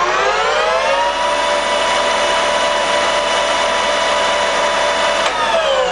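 Colchester Mascot 1600 lathe's geared headstock running in reverse at its top spindle speed of 1600 rpm: a gear whine that finishes rising in pitch in the first second as the spindle comes up to speed, runs steady, then falls from about five seconds in as the spindle winds down.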